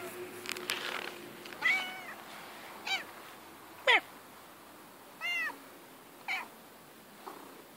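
Domestic cat meowing: about five short, high meows, roughly one a second.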